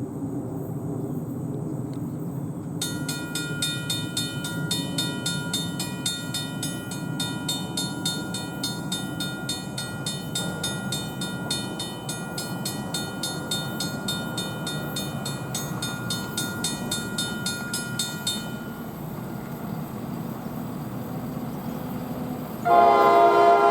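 Grade-crossing warning bell ringing rapidly and steadily for about fifteen seconds over a low rumble, then falling silent. Near the end the ALP-45DP locomotive's Nathan K5LA multi-chime air horn sounds loudly.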